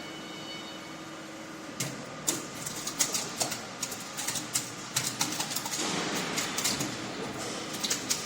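Stainless steel meat tumbler machine humming steadily with a few held tones, which stop about two seconds in. Then come irregular sharp clicks and clattering knocks, several a second, denser near the end.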